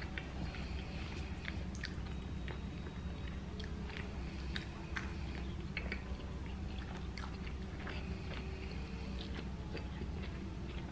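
A man chewing a mouthful of hot dog close to the microphone, with many small wet mouth clicks. A steady low hum runs underneath.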